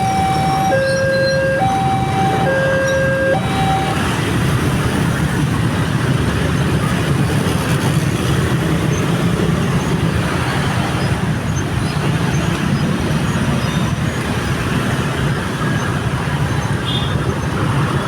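Railway level-crossing warning alarm sounding two alternating tones, high and low, which stops about four seconds in. A steady, loud rumble of passing vehicles follows.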